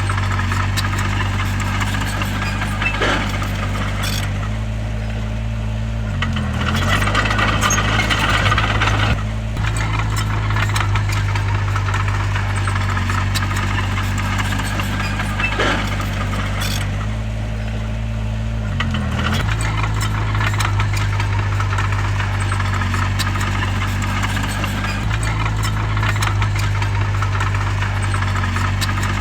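Bulldozer's diesel engine running under load, with clattering alongside. Its pitch sags and recovers twice, about a fifth of the way in and again about two thirds in, as the machine works.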